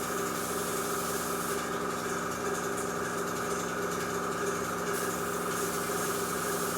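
Airbrush compressor running with a steady hum, while short passes of air and paint through the airbrush add a hiss that comes and goes.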